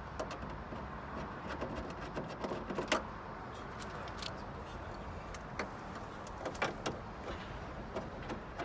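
Scattered light metallic clicks and clinks of bolts, washers and hand tools being handled during fitting, the sharpest about three seconds in, over a low steady background rumble.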